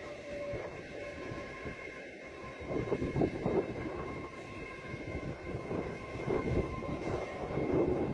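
A train running past on the line: a steady rumble that swells in places, with faint steady high-pitched tones above it.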